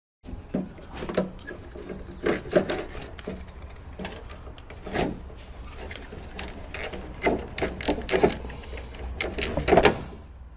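Irregular clicks, knocks and rubbing of car door handle parts being handled and fitted by hand, over a steady low hum.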